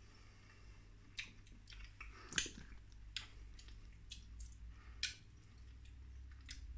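A person chewing a mouthful of tinned spaghetti loops in tomato sauce: faint, soft, wet mouth sounds with small clicks scattered throughout and a few louder ones.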